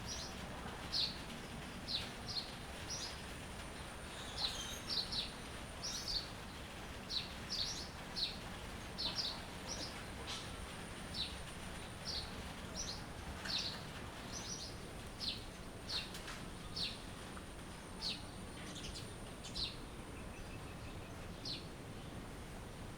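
Songbirds chirping: short, high chirps come one or two a second throughout, over a faint steady hiss and a thin high whine.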